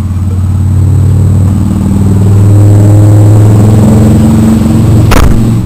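A motor vehicle's engine running as a deep, steady hum that swells louder through the middle, with a single sharp thump about five seconds in.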